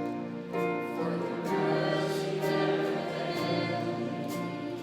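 Worship music in a church: voices singing together with instrumental accompaniment, long held notes.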